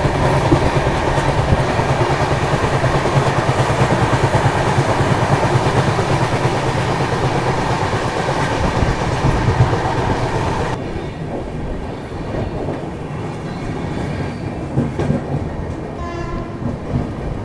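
Puri–Okha Express passenger coach running at speed, heard from an open door: dense rushing of wind and wheels on the rails. About eleven seconds in the sound cuts to a quieter scene, with a brief pitched tone near the end.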